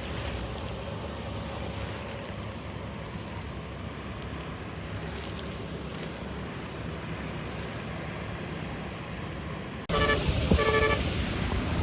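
Steady low rumbling noise. Near the end the sound jumps suddenly louder and a vehicle horn gives two short toots.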